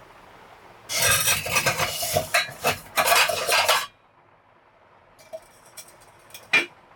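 Loud rustling and scraping of handled objects for about three seconds, then a few light clicks and one sharper click near the end.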